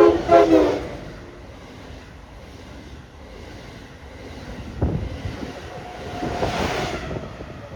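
A train's multi-note air horn sounding in short, choppy blasts that end about a second in, followed by the rumble of a train moving through, with a single thump about five seconds in and a louder rushing swell near the end.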